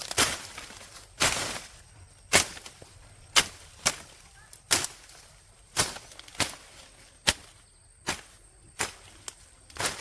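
A hand tool chopping or striking, one hard blow about every second, with a few lighter knocks between some of them.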